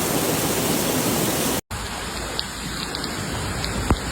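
Heavy rain with a dense rushing-water noise. It cuts off abruptly about one and a half seconds in, then a quieter stretch of rain follows, with scattered drip ticks and one sharp tap near the end.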